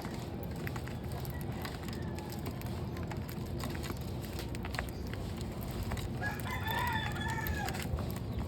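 A rooster crows once, a single drawn-out call of under two seconds starting about six seconds in, over a steady low background rumble and scattered small clicks.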